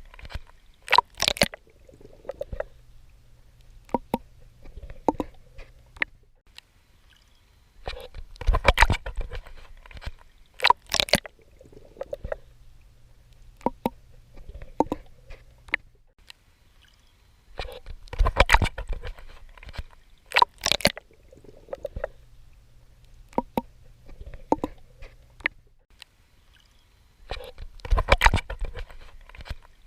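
A swimmer's strokes splashing and sloshing in water, in clusters of sharp splashes with quieter watery gurgling between them. The pattern repeats about every ten seconds.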